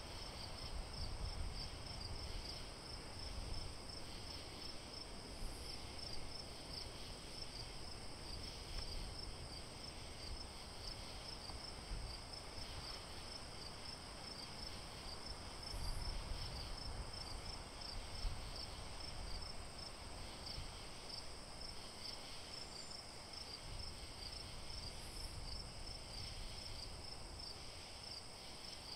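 Crickets chirping steadily in a fast, pulsing high trill, with a low rumble underneath that swells now and then.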